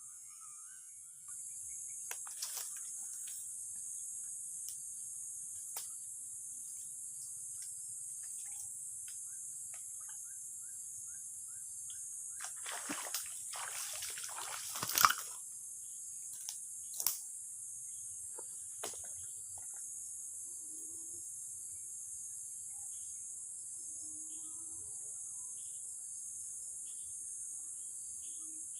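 Steady high-pitched drone of insects, with scattered clicks and a brief noisy scuffle a little past halfway that ends in a sharp knock, followed by two more clicks.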